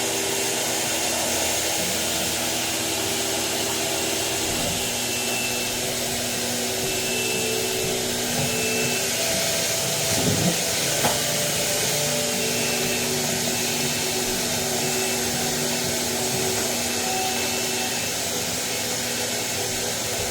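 Hoover Turbo Empower 4600 cleaner's motor running steadily under test, its hum shifting in pitch now and then, with a couple of light knocks about halfway through.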